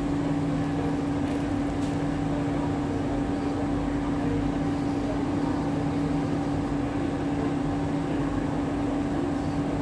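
Steady hum of an SMRT C151A train standing at a station with its doors open, its air-conditioning and onboard equipment running, with one constant low tone.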